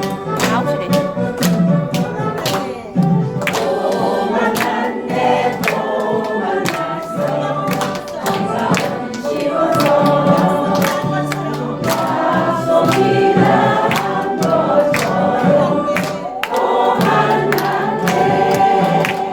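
Harmonica ensemble playing a song together in G, with sustained chords and melody over a steady beat.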